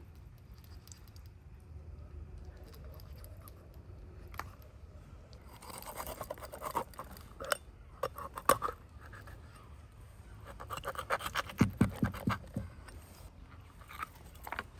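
Scratchy scraping in two bouts in the second half, mixed with sharp clicks and a few heavier knocks.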